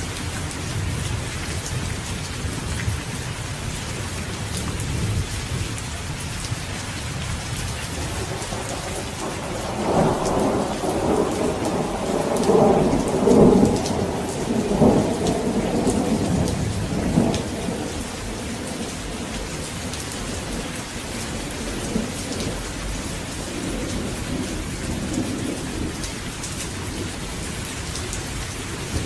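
Steady rain falling, with a long roll of thunder that swells up about a third of the way in, rumbles on for several seconds and dies away, leaving the rain alone again.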